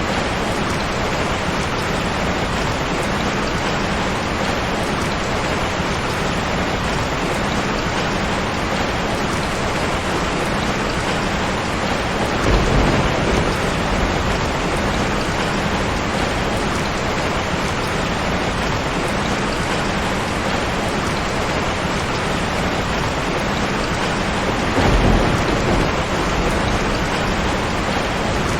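Steady rain pouring down, with two short low rumbles of thunder, about halfway through and again near the end.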